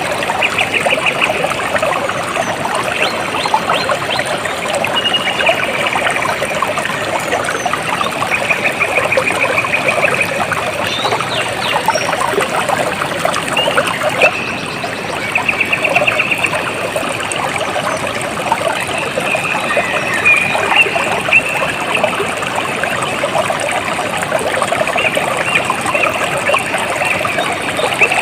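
A small stream trickling and babbling steadily over stones. Short, high, rapid trills break in every few seconds above the water.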